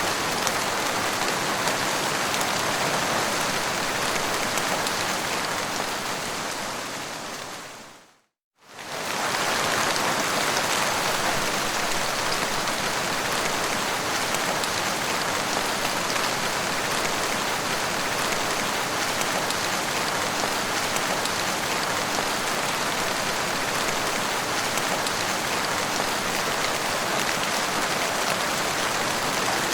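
Steady heavy rain falling. About eight seconds in it fades out to a moment of silence and comes straight back, like a loop joining.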